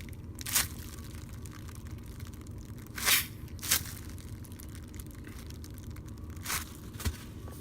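Brief soft rustling and crinkling as a foam squishy toy is squeezed and handled, four short bursts over a low steady background hum.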